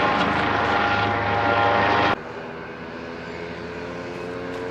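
Modified 50cc Skyteam monkey bike engine buzzing hard at high revs. About two seconds in the level drops abruptly to a quieter, steady engine note that slowly rises.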